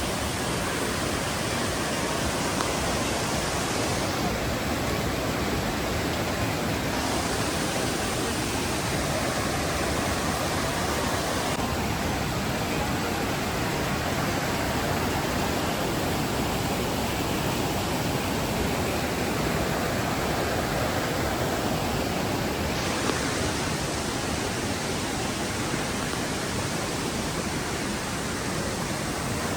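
Steady rush of water from Mae Klang Waterfall, a large waterfall.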